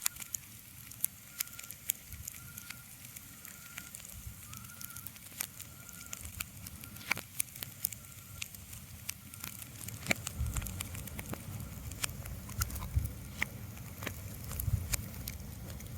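Nature ambience with scattered sharp crackles and clicks over a faint hiss, and a low rumble that comes in about ten seconds in.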